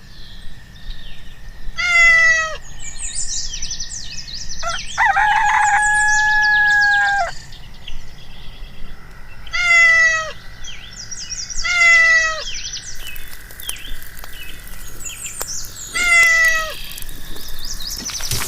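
Animal cries: four short calls that each fall in pitch, with one longer held call a few seconds in. High bird chirps come between them.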